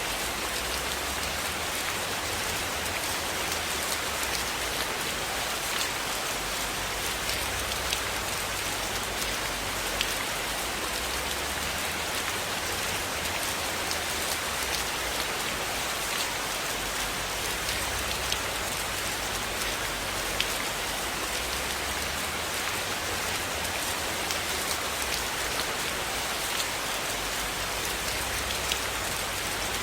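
Steady rain falling on a cabin roof, an even hiss with a low rumble underneath and scattered sharp ticks every second or two.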